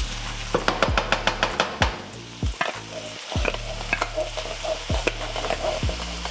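Ground beef and vegetables sizzling in a skillet as a wooden spoon stirs and scrapes through them, with a quick run of spoon clicks against the pan in the first couple of seconds. Low thumps recur about once a second underneath.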